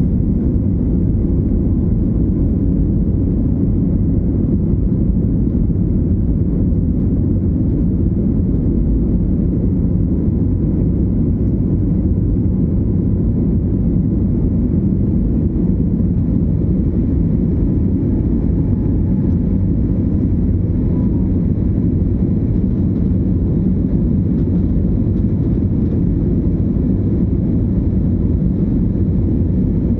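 Airliner's engines running at take-off power: a loud, steady low rumble with faint steady whining tones above it.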